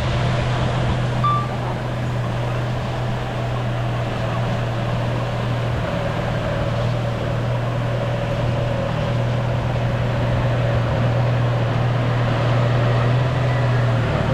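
Bulldozer's diesel engine running steadily at work, a constant low drone.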